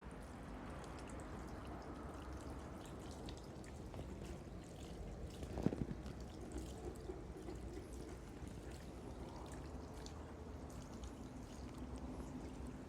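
River water flowing steadily, with a brief cluster of sharp knocks a little before the middle.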